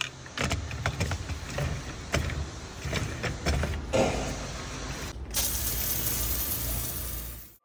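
Handling of a battery-powered foam sprayer: clicks and knocks over a low hum, then about five seconds in a steady hiss that cuts off abruptly.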